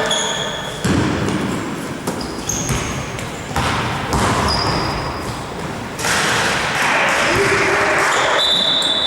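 Indoor court game: voices calling out across a reverberant sports hall, with ball thumps and short high shoe squeaks on the court floor. The voices grow louder and fuller about two-thirds of the way in.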